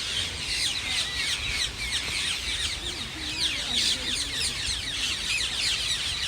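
A large flock of rose-ringed parakeets screeching together, many short, harsh, downward-sliding calls overlapping without a break.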